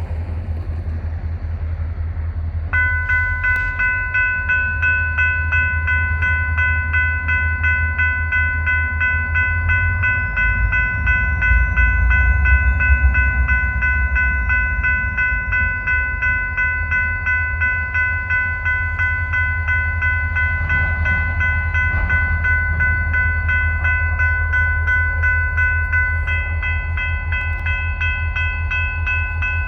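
GP40-2 diesel locomotives rumbling, their engines working louder about ten to fourteen seconds in. About three seconds in a bell starts ringing steadily with a regular pulse and keeps on.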